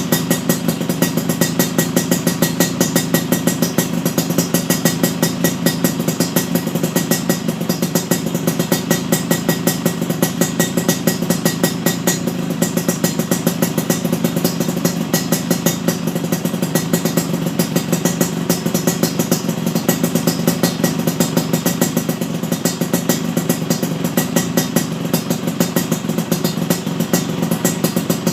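Yamaha RX-King's 135 cc two-stroke single-cylinder engine idling steadily through a stainless-steel 'kolong telo' aftermarket expansion-chamber exhaust, with an even, pulsing exhaust beat.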